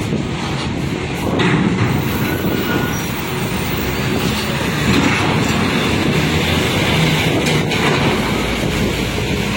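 Strong wind buffeting the microphone: a loud, steady rumble and rush with no pauses.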